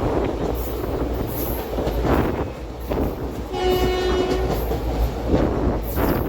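Passenger train running on the track, with a steady rumble and clatter of the wheels. About halfway through, a train horn sounds once for about a second.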